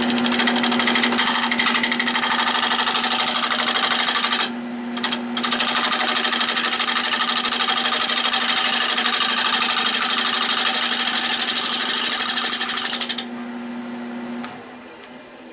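Nova 16/24 wood lathe turning an oak bowl blank while a turning tool cuts the outside, a loud steady cutting hiss over the motor's constant hum. The cut stops briefly about four and a half seconds in and ends a little before the close, and the motor hum stops about a second later.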